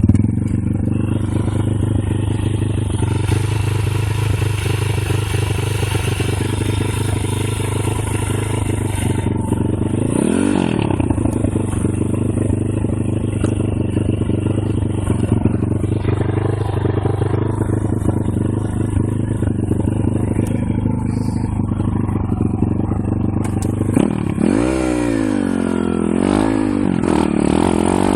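Pit bike's single-cylinder four-stroke engine running steadily under way. It revs up and back down once about a third of the way in, then rises and falls several times near the end.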